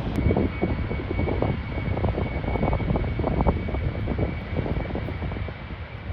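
Airliner engines running with a steady high whine that sets in just after the start, heard through heavy wind buffeting on the microphone.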